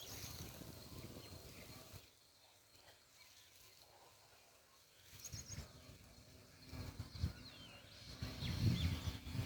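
Outdoor ambience with a few short high bird chirps and low rumbling swells that grow louder toward the end.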